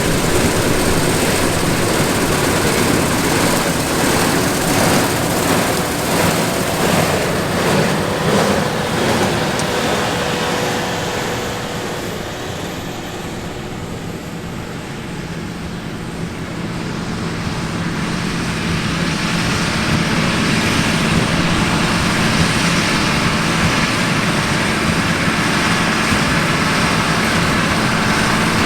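John Deere S780 combine harvesting barley with a Shelbourne Reynolds stripper header: the engine and threshing machinery run loud and steady. The noise eases somewhat about halfway through, then builds back up.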